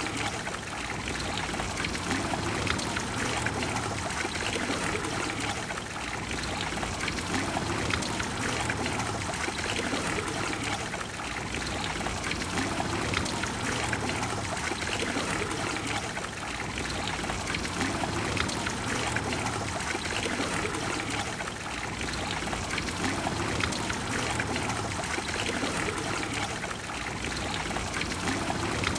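Water of the Trevi Fountain splashing and cascading into its basin, a steady rushing with gentle swells every few seconds.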